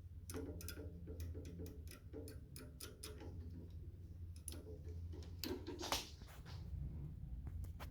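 Faint, irregular light clicks and ticks, with a slightly louder click about six seconds in, over a low steady hum: small parts and tools being handled while a microwave oven is taken apart.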